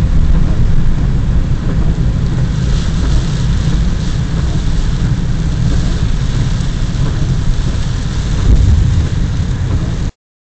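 Steady, heavy low rumble of a vehicle driving, with an even hiss of rain over it. The sound cuts off abruptly near the end.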